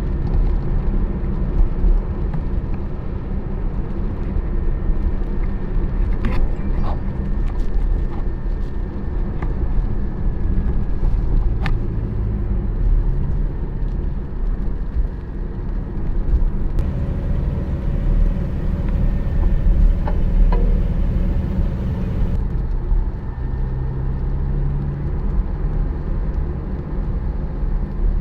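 Porsche 718 Spyder's flat-six engine and tyres as the car drives: a steady low drone whose pitch shifts a little now and then, with a spell of added hiss a little past the middle.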